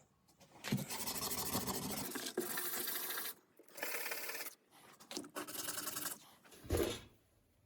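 A replacement starter-motor brush being rubbed down by hand on an abrasive in about five strokes of roughly a second each, shaving it to size so it fits its holder. A short bump near the end.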